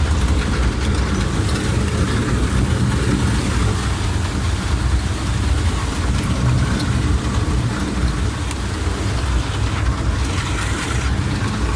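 A motor vehicle's engine running steadily under a continuous rushing noise, with a brief louder hiss about ten seconds in.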